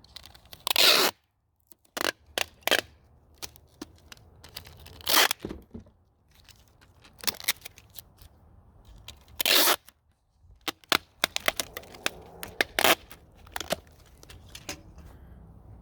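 Packing materials being handled while a parcel is wrapped: three loud tearing sounds about half a second each, one under a second in, one about five seconds in and one near ten seconds in, among many short crackles and clicks.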